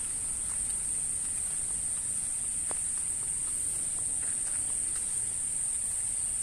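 Insects keeping up one continuous high-pitched trill, with a few faint ticks.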